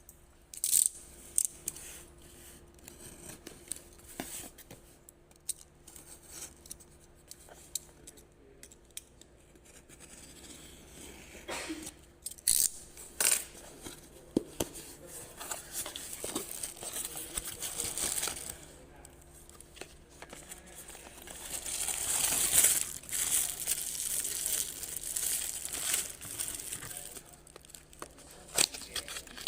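Product packaging being opened and handled: plastic and paper wrapping crinkling and tearing, with scattered sharp clicks and taps, loudest in longer rustling stretches in the second half.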